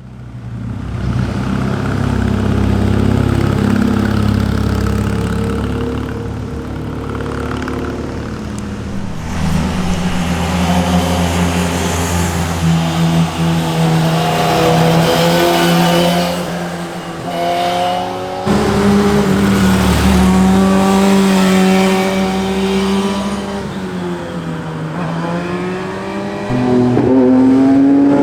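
Sport motorcycles passing one after another with engines revving, their exhaust pitch rising and falling through the gears. The sound changes abruptly about a third and two-thirds of the way in, where separate passes are joined.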